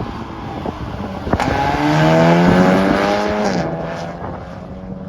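Four-cylinder exhaust of a muffler-deleted 2017 Acura ILX as the car accelerates past. The engine note swells and climbs for about two seconds, then drops away as it passes.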